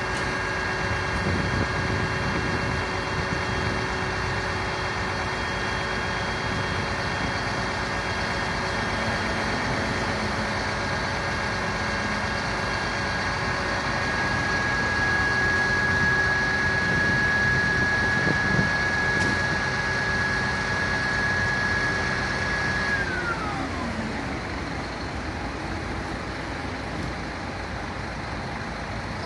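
Fire engine siren holding one steady tone over a running truck engine, then winding down and dying away about three-quarters of the way through.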